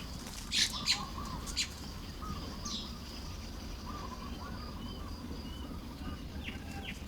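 Baya weavers chattering at their nests: a few short, harsh, buzzy bursts in the first three seconds, with soft chirps throughout and a few faint whistles later on. A steady low rumble of background noise lies underneath.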